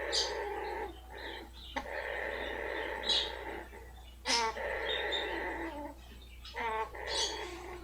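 Blue-fronted Amazon parrot purring in long rough stretches, broken a few times by short sharp snorts and quick rattling trills, a sign of pleasure at being rubbed.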